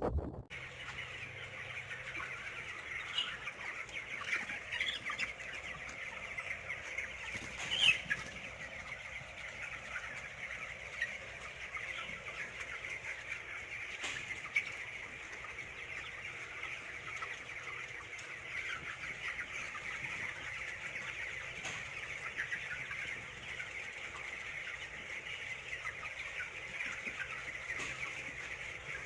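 A large flock of chickens clucking and calling together in a steady, dense din, with one louder call about eight seconds in.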